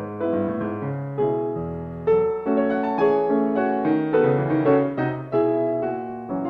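Background piano music: slow chords and notes, each struck and left to fade.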